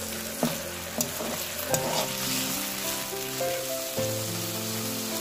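Prawns sizzling in hot mustard oil in a kadai as they are stirred with a spatula, with a few sharp knocks of the spatula against the pan in the first two seconds.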